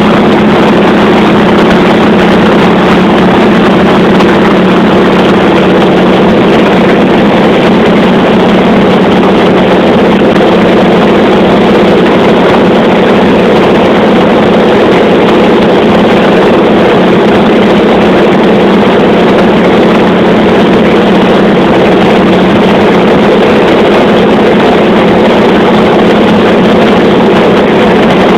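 Piston aircraft engine droning steadily in flight, loud and unchanging, as heard from on board the aircraft.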